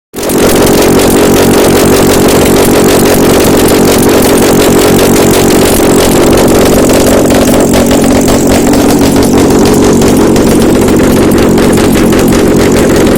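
Used Toyota 2AR-FE 2.5-litre four-cylinder petrol engine running steadily on a test stand, loud and even throughout, during a bench check.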